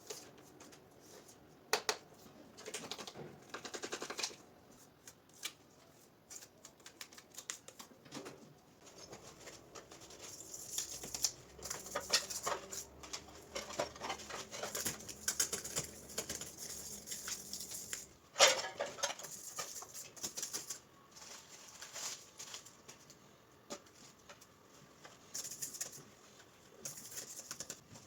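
Hand tools working grout on tile: irregular scraping strokes with many small clicks and taps, and one sharp knock about two-thirds of the way through.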